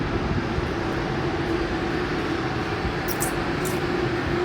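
Steady city background noise with a constant mechanical hum. A couple of brief high clicks come about three seconds in.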